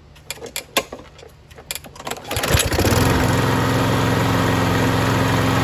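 A few clicks and knocks, then the Lawn-Boy mower's Kohler 149cc single-cylinder engine starts a little over two seconds in, briefly climbs, and settles into a steady run. It is running at its newly lowered, much calmer speed, with the auto choke working again.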